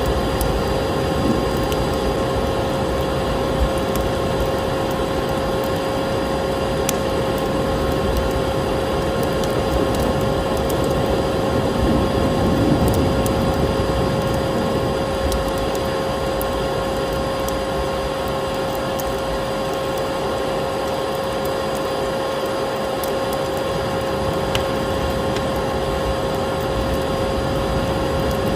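Vacuum cleaner running steadily with a constant motor whine and rushing airflow, mixed with the scattered crackles and pops of a wood fire burning in a fireplace.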